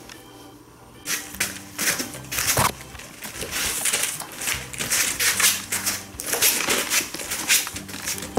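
Irregular rustling and scratching noises, many quick strokes from about a second in, over soft background music with held low notes.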